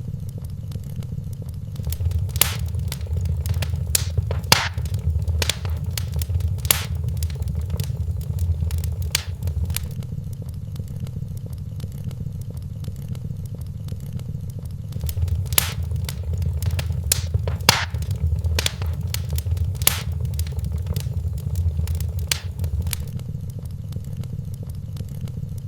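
Wood fire in a fireplace crackling and popping over a low, steady rumble. The crackles come in two spells of several seconds each, when the rumble also swells, with a quieter lull between them.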